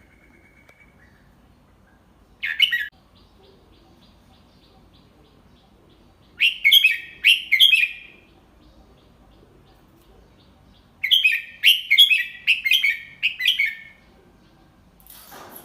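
Red-whiskered bulbul singing in separate bursts of quick, chirpy notes: one short call about two and a half seconds in, a phrase of several notes a little past the middle, and a longer run of repeated notes from about eleven seconds.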